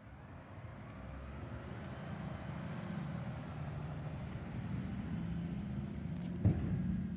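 Garbage truck engine running and growing louder as it works nearby, with one sharp knock about six and a half seconds in.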